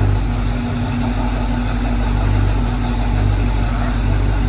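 Chevy 327 small-block V8, freshly swapped into a 1968 K10 pickup, idling steadily.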